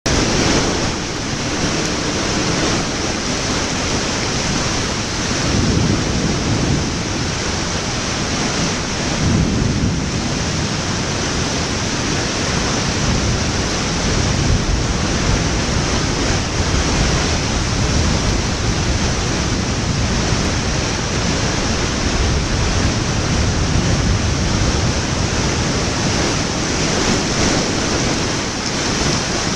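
Steady, loud rushing noise with no distinct events, swelling a little in the low end now and then.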